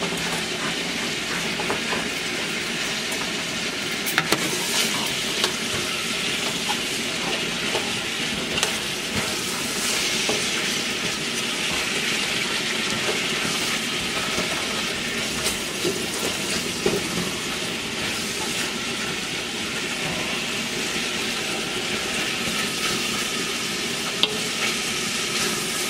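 Saltfish, onions and sweet peppers sizzling in margarine in a large aluminium pot while a silicone spoon stirs and scrapes through them. There are a couple of sharp knocks, one about four seconds in and one near the end.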